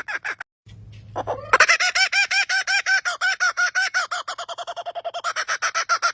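A bird's laughing call: a fast run of repeated pitched notes, about nine a second. It breaks off about half a second in, then starts again with a rising note and goes back to the rapid laughing notes.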